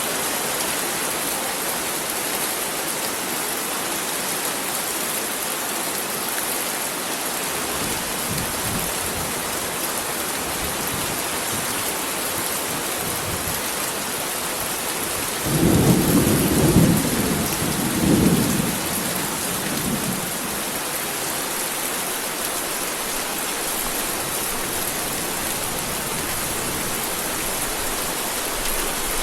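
Heavy rain falling steadily, with a rumble of thunder a little past the middle that swells for a few seconds and then fades back into the rain.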